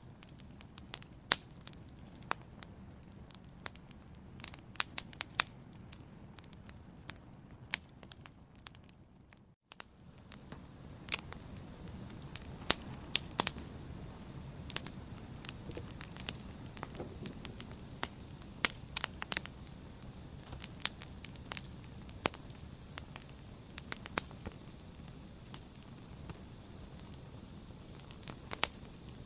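Wood fire burning in a fireplace, crackling with many sharp, irregular pops and snaps over a steady low rush of flame. The sound drops out for a moment just before ten seconds in, then carries on slightly louder.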